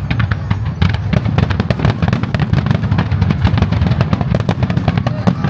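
Starmine fireworks barrage: a rapid, dense string of sharp cracks and bangs several times a second over a continuous deep booming rumble.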